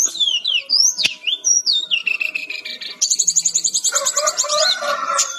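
Sikatan-rimba dada-coklat (a jungle flycatcher) singing a fast, varied song of whistled notes sliding up and down, breaking about halfway into a rapid trill of repeated high notes with lower warbling notes beneath.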